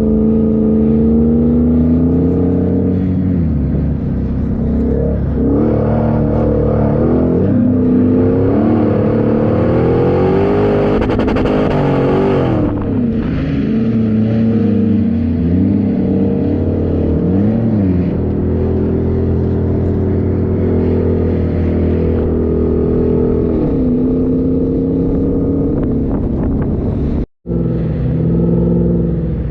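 4x4 engine running under varying throttle while driving in sand, its pitch rising and falling again and again as the revs change, with a harder surge about two-thirds of the way through. The sound cuts out for an instant near the end.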